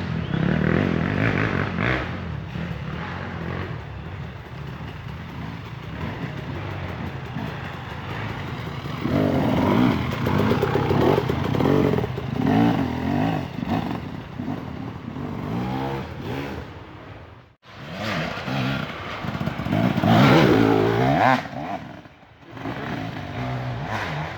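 Dirt bike engine revving hard in repeated rising and falling surges, with the loudest bursts about ten seconds in and again near twenty seconds. The sound cuts out sharply for a moment twice near the end.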